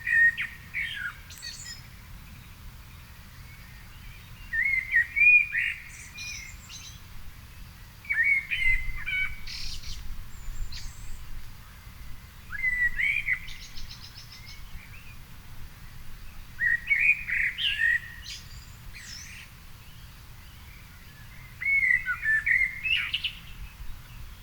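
A songbird singing in separate warbled phrases, six of them, about one every four seconds, each a lower fluting run followed by thin, high twittering notes.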